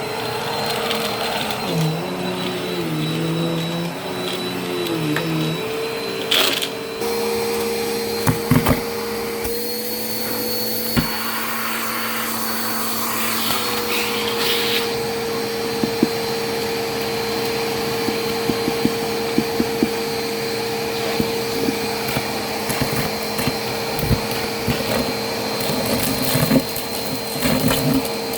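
Vacuum cleaner running, its motor pitch wavering for the first several seconds and then holding steady, with many sharp clicks and crackles as crunchy debris is sucked up.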